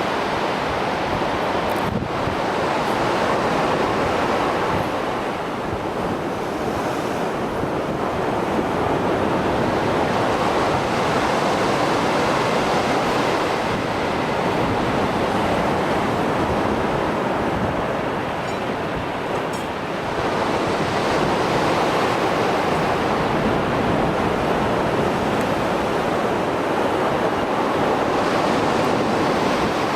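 Mediterranean surf on a rough sea after a storm: a continuous wash of breaking waves that swells and eases slightly, with brief lulls.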